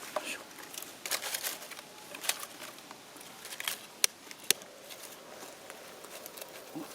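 Scattered irregular clicks and light taps, like small objects being handled, with two sharper snaps about four seconds in.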